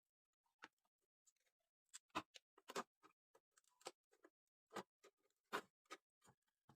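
Irregular light clicks and knocks, about a dozen, of small tools and parts being handled during work on a transistor radio.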